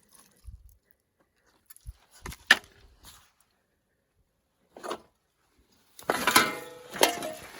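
Pieces of aluminium aircraft wreckage being handled: a few separate knocks, then about six seconds in a burst of metal clattering and scraping with a ringing tone for a second or so.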